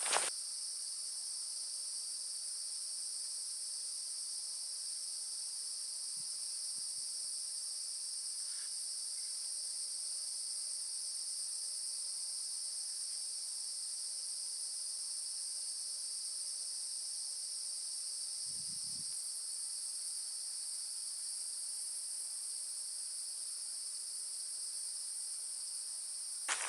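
Steady, unbroken high-pitched drone of a forest insect chorus, in two high bands of pitch. A faint low thud comes about two-thirds of the way through.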